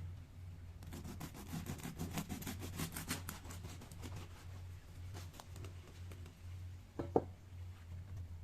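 Sourdough cheese bread being handled, giving a dense run of crackles and scrapes for about three seconds, then a single sharp knock near the end, over a steady low hum.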